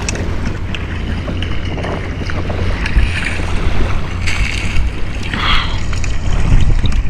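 Wind buffeting the microphone with a steady low rumble, over the wash of sea water.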